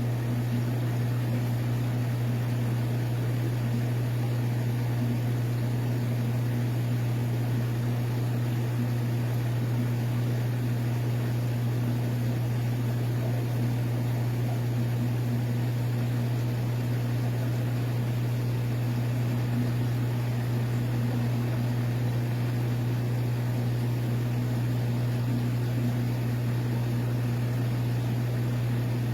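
Aquarium pump humming steadily: a low mains-frequency drone over a constant hiss of running equipment, with no change.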